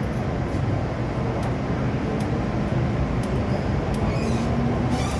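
MTR M-Train electric multiple unit running on the Kwun Tong Line: a steady rumble of wheels on rail and running gear. Near the end a motor tone begins to rise in pitch.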